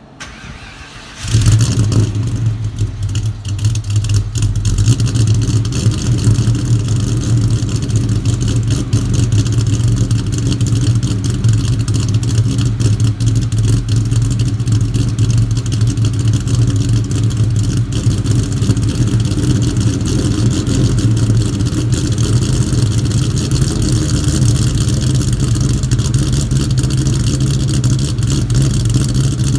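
2003 Ford Mustang Mach 1's stroker V8 firing on a cold start about a second in, then idling loud and steady.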